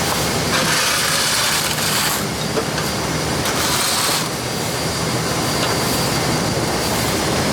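Heavy truck engine running steadily, with two bursts of hissing, one about half a second in lasting under two seconds and a shorter one about three and a half seconds in.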